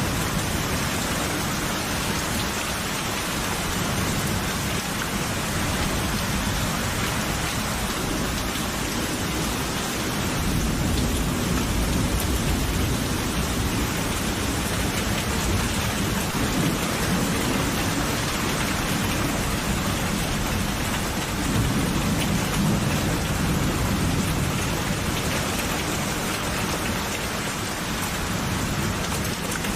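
Steady heavy rain falling, with low rolling thunder that swells twice, about a third of the way in and again about two-thirds of the way in.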